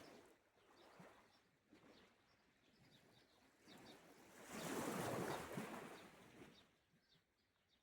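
Gentle sea waves washing on the shore, faint overall, with one wave rising and falling away in the middle. Faint bird chirps come and go.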